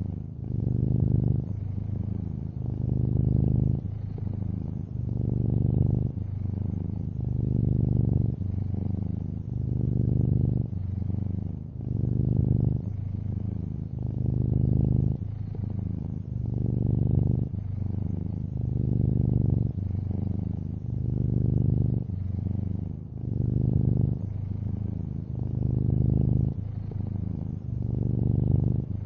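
Domestic cat, a long-haired orange tabby, purring steadily and close up. The low, rumbling purr swells and eases in an even rhythm of roughly one pulse a second as the cat breathes in and out.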